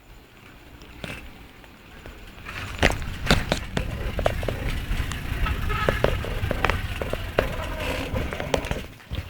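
Bicycle being ridden over a rough surface: a low rolling rumble with many sharp rattles and clicks, which starts about two and a half seconds in and fades just before the end.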